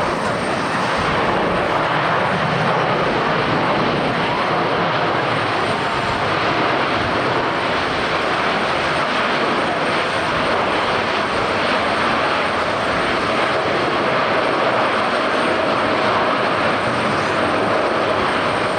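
Jet airliner engines, loud and steady, with a faint steady whine running under the noise.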